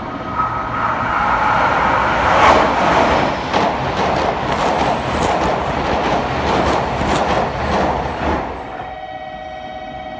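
A blue JR Kyushu 883-series Sonic limited express passes through the station at speed. Its running noise builds about two seconds in, with rapid clicks of the wheels over the rail joints, and falls away near the end as the last car goes by.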